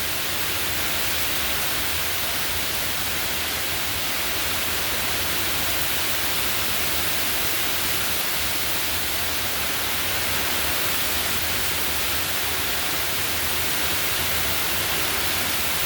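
Hard hurricane rain pouring down in a steady, even hiss.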